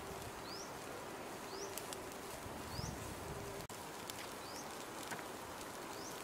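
A bird repeating a short, high, rising chirp roughly once a second over a steady background hiss, with a few faint clicks.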